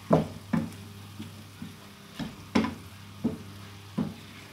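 A spoon knocking and scraping in a pan as mashed potato is stirred and mixed, in irregular strokes about every half second, over a steady low hum.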